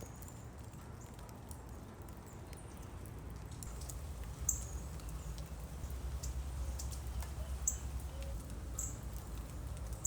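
Outdoor ambience with a low rumble that swells about four seconds in, and four short, high chirps from a small bird, with a few faint clicks between them.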